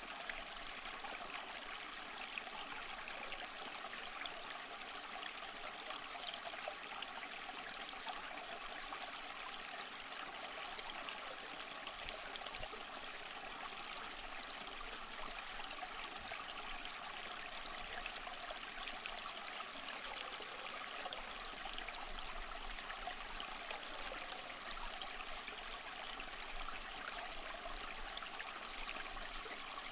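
Small stream running and trickling over stones, a steady even splashing without pauses.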